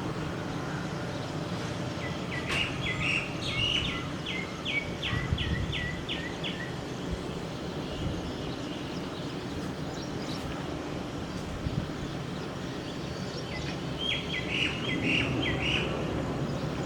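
A bird calls in two bouts of rapidly repeated chirps, about two notes a second, the first a couple of seconds in and the second near the end. A steady low rumble runs underneath.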